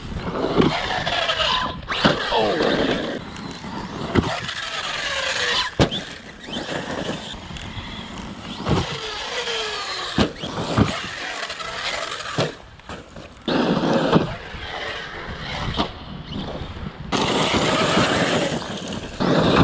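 Arrma Outcast EXB 6S RC stunt truck's brushless electric motor whining up and down in pitch as it is throttled hard, with repeated sharp knocks of the truck landing and crashing.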